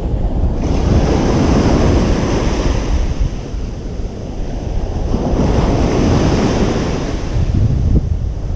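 Ocean surf breaking and washing up a beach, swelling twice, about four to five seconds apart. A low rumble of wind on the microphone runs underneath.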